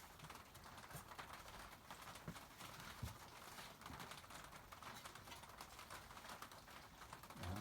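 Faint, irregular light taps and handling noise over a low hiss, as of small objects being handled on a workbench.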